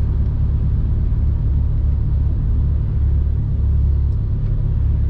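Mercedes-Benz Actros truck's diesel engine idling, heard from inside the cab as a steady low rumble.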